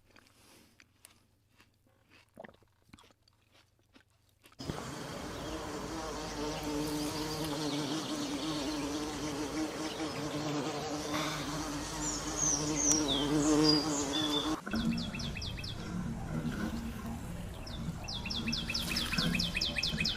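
Faint clicks at first. About four and a half seconds in, a steady buzzing hum like a flying insect's begins, with a few brief high chirps over it. Then, after an abrupt change, a rapid high-pitched trill repeats.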